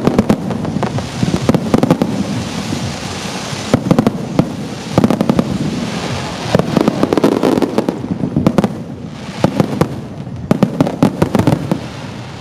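Aerial fireworks shells bursting in a dense barrage: rapid bangs one after another over a continuous crackling hiss, easing off briefly about eight seconds in and again near the end.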